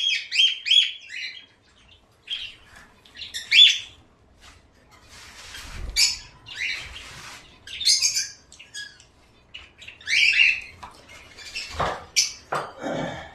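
Caged pet birds chirping and squawking in short, repeated calls, with a couple of knocks against the cage near the end.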